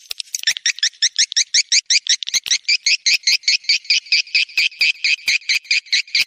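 Swiftlet mating call: a fast, even chattering trill of high chirps, about nine a second, of the kind played as a call-in lure for swiftlets.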